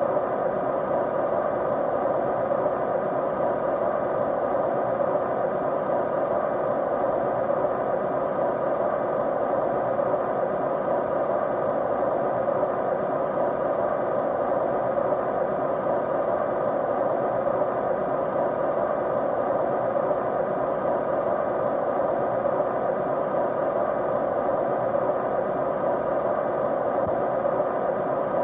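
Steady white noise: an even, unbroken rush that never changes, fullest in the middle pitches and thinner in the highs.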